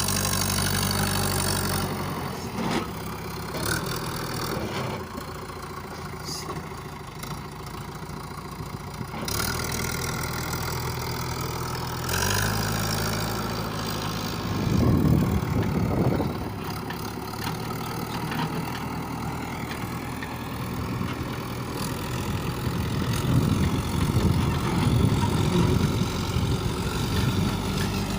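Diesel engines of a backhoe loader and tractors running at idle, the revs rising briefly about halfway through and again near the end.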